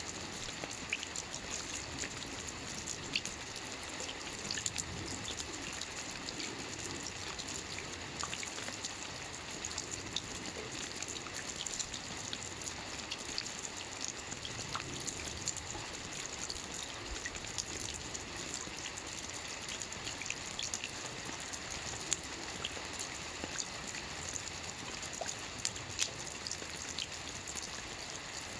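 Soft rain falling steadily on a roof: an even hiss dotted with many small, irregular drop ticks.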